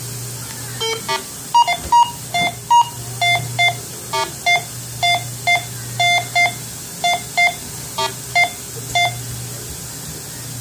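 Minelab Go-Find 60 metal detector sounding its target tone as a coin is passed over the coil in an air test: a run of short beeps, many in pairs. A few higher beeps come first, then a lower tone repeats, over a steady low hum.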